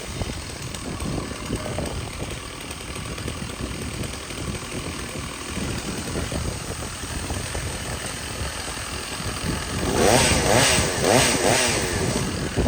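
Two-stroke chainsaw running at low speed, then revved up and down several times in quick succession from about ten seconds in.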